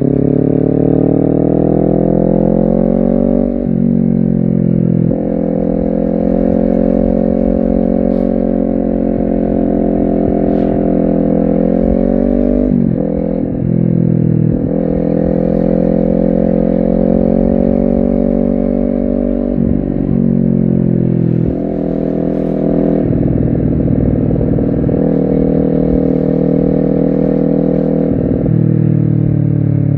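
Honda CBR250RR's parallel-twin engine running under load. Its pitch climbs steadily, then dips briefly at each of several gear changes.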